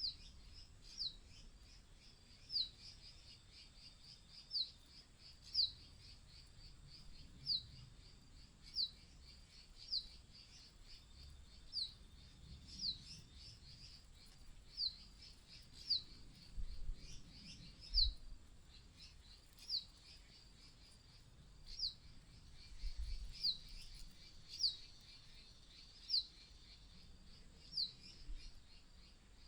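A bird's high, thin call: one short note sliding downward, repeated about every second or so, over fainter twittering.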